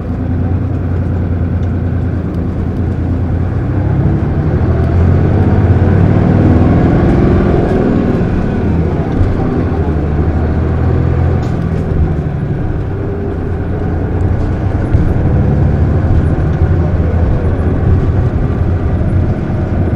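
Isuzu Erga PJ-LV234L1 city bus's diesel engine heard from inside the cabin, running under way. Its pitch rises as the bus accelerates over the first several seconds, eases off, then climbs again about two-thirds of the way through.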